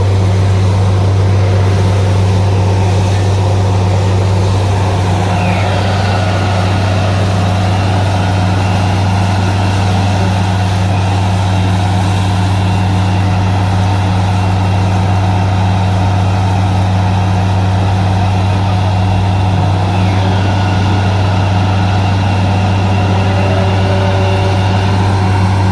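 Truck-mounted borewell drilling rig's engine running at a steady load, a loud, even low drone that holds throughout.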